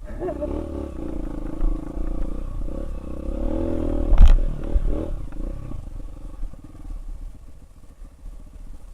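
Trail motorcycle engine revving and labouring, its pitch rising and falling, with a loud knock about four seconds in; the engine then fades away.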